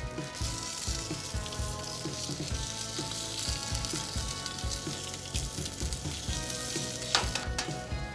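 Food frying and sizzling in a pan over a camp stove, a steady crackling hiss with scattered small pops. There are a couple of sharp clicks near the end.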